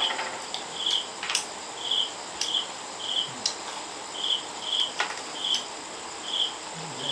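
An insect chirping in short pulses, about two a second with small gaps, over a steady high-pitched whine, with a few light clicks in between.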